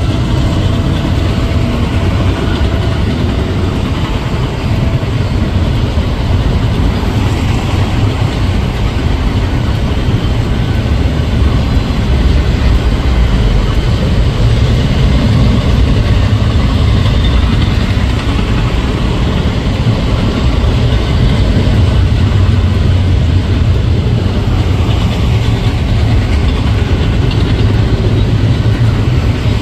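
Double-stack intermodal well cars rolling past at speed: a loud, steady rumble of steel wheels on rail.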